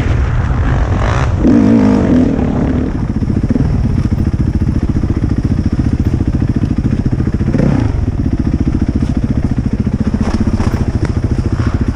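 450cc four-stroke dirt bike engine running under throttle for about the first three seconds, then settling into a steady, even idle.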